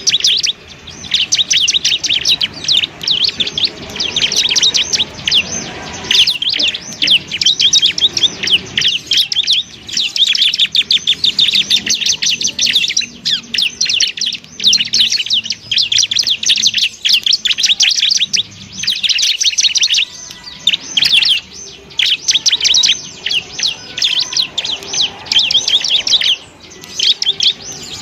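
Bar-winged prinia (ciblek) singing a rapid, high-pitched chattering song, almost continuous, with only a few short breaks.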